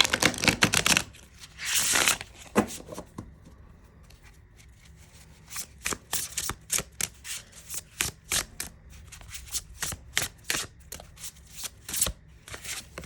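A deck of tarot cards being shuffled. There is a rustling burst of cards at the start and another about two seconds in, then a short lull, then from about five seconds on a long run of quick, separate card taps and flicks.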